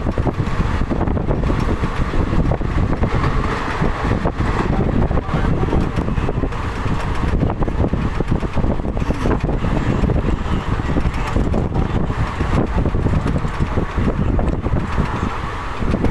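Moving passenger train's running noise, a loud steady rush with fine rapid flutter, and wind catching the microphone.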